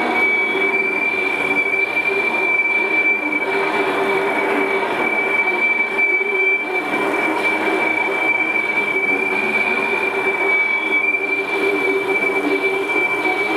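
Freight train rolling past, a steady rumble of the cars with a constant high-pitched whine over it.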